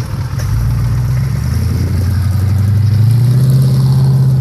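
Chevy K5 Blazer / GMC Jimmy 6.2-litre V8 diesel running through a glasspack muffler, pulling under load with its pitch rising about half a second in and again around three seconds in, then holding steady.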